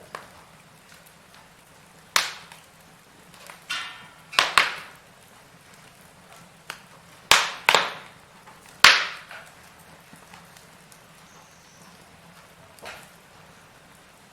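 Firewood logs burning in a fireplace, crackling with sharp pops: about seven loud ones, some in quick pairs, and fainter ticks between.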